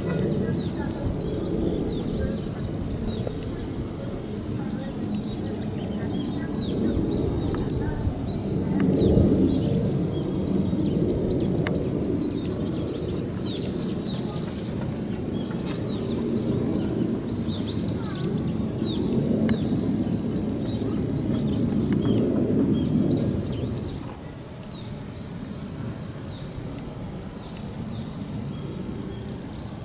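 Wild birds chirping and calling in many short, quick notes over a steady low rumble. The rumble drops noticeably about 24 seconds in.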